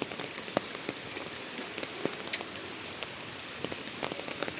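Steady rain with drops pattering and ticking irregularly on nearby surfaces.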